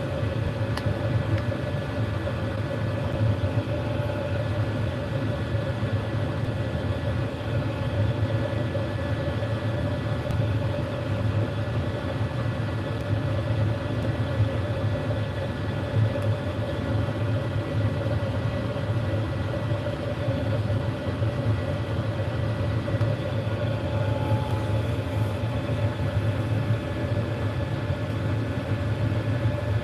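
A steady, unchanging low rumble with a constant hum running through it.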